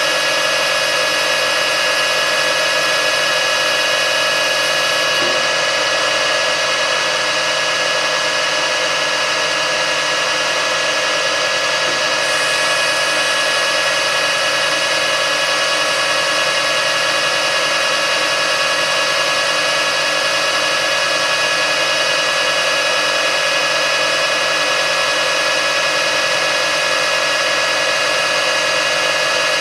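Metal lathe running steadily while turning down a small metal bar, a constant whine of several steady tones.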